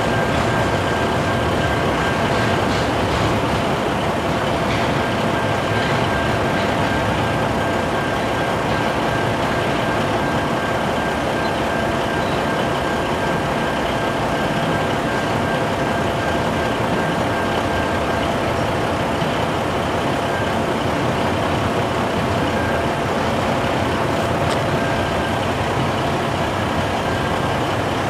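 Double-stack intermodal freight cars rolling steadily past: a continuous, even noise of wheels on rail, with a semi-trailer truck's diesel engine idling close by.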